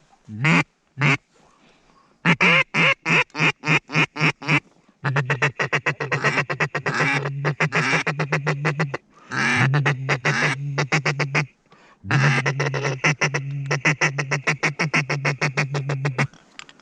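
Duck call blown to bring in ducks: a few single quacks, then a run of about four quacks a second, then long stretches of fast feeding chatter broken by short pauses.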